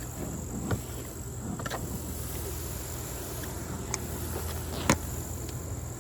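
Steady high insect buzz over a low rumble of wind, broken by a few sharp clicks, the loudest about five seconds in.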